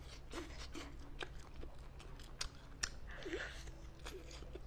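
Close-miked eating sounds from a braised whole squid with a stringy filling: chewing and sucking, with a scatter of short wet clicks and smacks at irregular moments.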